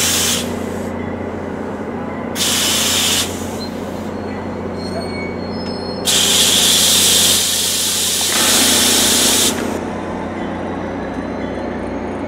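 NJ Transit commuter train moving slowly past, with a steady low hum and rumble from the train. Loud bursts of air hiss from the train's brake system come right at the start, again about two and a half seconds in, and in a long stretch from about six to nine and a half seconds.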